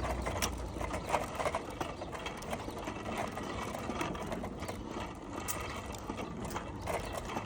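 Bicycle being ridden, its chain and freewheel ticking and rattling steadily with scattered sharper clicks.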